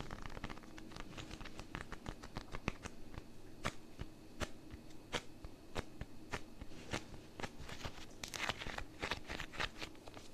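Close-miked sticky ASMR sounds: fingers tapping and peeling off a tacky surface, giving irregular crackling, tearing clicks that grow louder and more spaced near the end.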